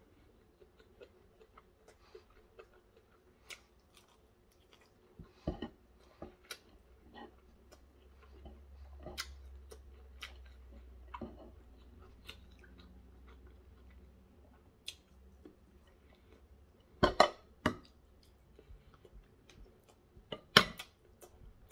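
A person chewing and eating by hand, with soft mouth smacks and small clicks throughout. A few louder sharp knocks come in the last few seconds, the last as a metal spoon goes into the plate.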